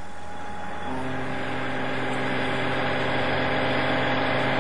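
Capstan lathe running with a steady machine hum at about 1,260 rpm; the hum grows louder and fuller about a second in and then holds steady.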